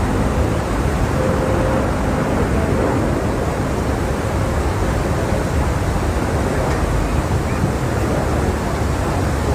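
Airbus A350's Rolls-Royce Trent XWB jet engines on a low pass: a steady, loud rushing noise with a faint whine in the first half.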